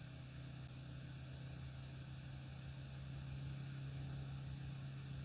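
Harmony light aircraft's piston engine run up to about 4000 rpm for the pre-takeoff ignition check. It makes a steady low drone that grows slightly louder.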